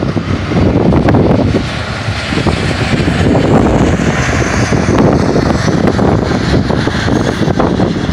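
Union Pacific double-stack container train rolling past at speed: a steady loud rumble and rattle of steel wheels on the rails, with frequent clicks and clanks from the well cars.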